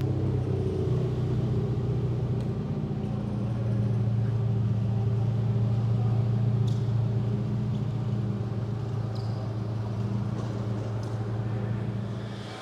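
Car engine running at low revs with a steady low note that swells slightly about four seconds in, then cuts off near the end.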